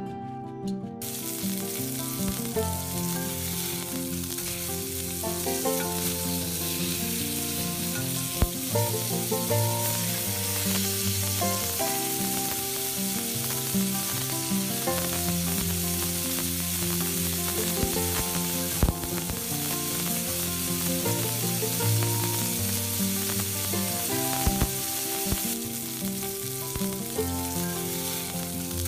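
Preserved bean curd and chopped aromatics sizzling in hot oil in a wok, the sizzle starting about a second in. A wooden spatula stirs them, with a few sharp knocks against the pan.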